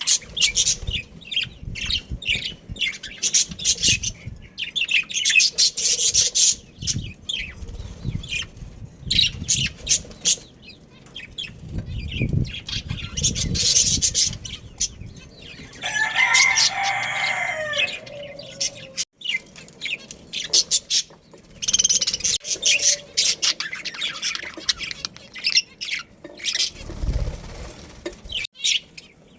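Budgerigars chirping and chattering in quick, high, overlapping calls. About halfway through, a longer, lower-pitched bird call lasts about two seconds.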